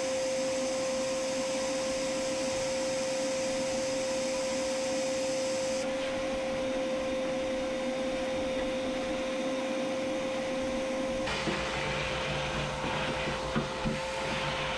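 Vacuum cleaner running steadily with a constant whine. About eleven seconds in, the background noise changes abruptly, and a couple of light knocks come near the end.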